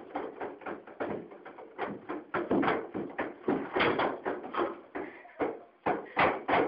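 Desks and chairs banging and rattling in a quick, irregular run of knocks, several a second, as an earthquake's shaking is acted out in a classroom.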